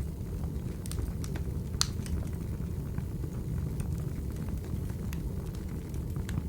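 Wood fire burning: a steady low rumble with scattered sharp crackles and pops, the loudest about two seconds in.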